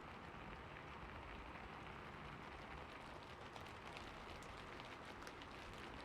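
Heavy rain falling steadily, with individual drops ticking sharply from about halfway through.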